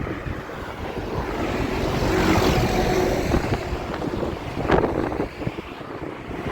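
Strong wind buffeting the microphone on a moving bicycle, a steady low rumble that swells in the middle, with one sharp knock a little before the end.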